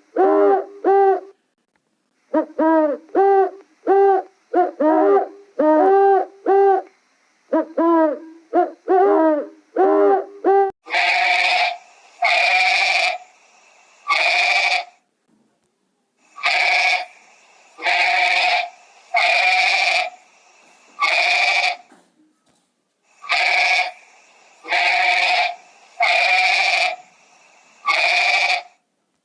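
Animal calls: first a run of short, pitched hooting calls in quick groups, then, about a third of the way in, a change to a series of longer, harsher bleat-like calls, each about a second long and repeated every second or two.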